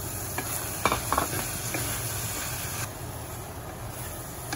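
Chopped kangkong (water spinach) stalks and corned beef sizzling in a stainless steel pan as they are stirred with a wooden spatula, with a few light scrapes of the spatula about a second in.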